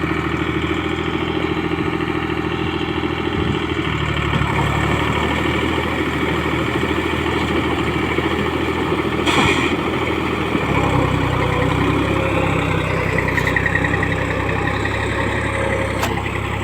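Deutz-Fahr tractor's diesel engine running steadily under load, its note shifting about four seconds in and again around eleven seconds as the load changes. A short sharp knock comes about nine seconds in.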